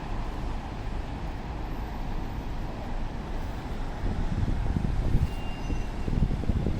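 City street traffic: a steady low rumble of vehicles, swelling as a heavier vehicle passes about four seconds in.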